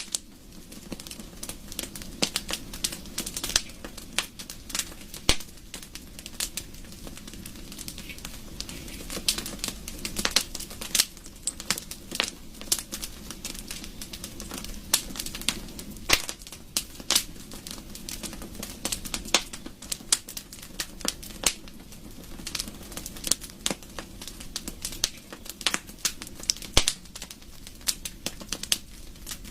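Burning wood fire crackling, with irregular sharp pops and snaps over a steady low rumble of flames.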